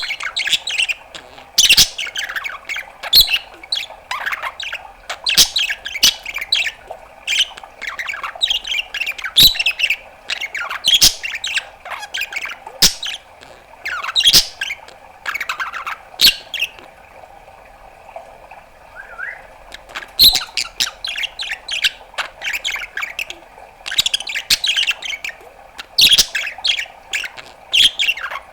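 Budgerigar chattering: a rapid run of short squawks, clicks and chirps, with a lull of a few seconds about two-thirds of the way through before the chatter starts again.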